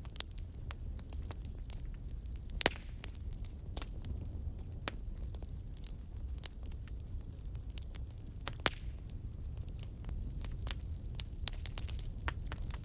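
Wood fire crackling in a fireplace: scattered sharp pops and snaps over a steady low rumble, with two louder pops about three seconds in and near nine seconds.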